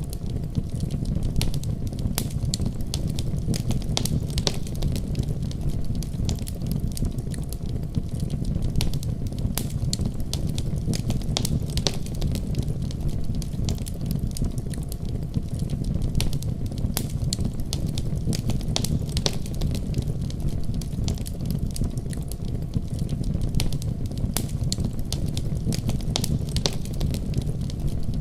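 Fireplace crackling, with irregular sharp pops and snaps over a steady deep rumble of a storm outside.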